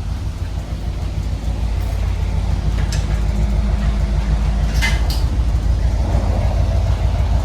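Car engine idling through a newly fitted exhaust, a steady low tone. Two short clicks or knocks come about three and five seconds in.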